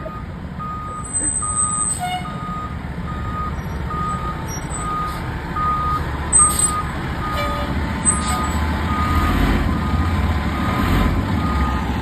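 Fire engine's reverse alarm beeping steadily, about one and a half beeps a second, over the low running of the truck's engine as it backs up. The engine grows louder near the end, with a few brief clicks and knocks along the way.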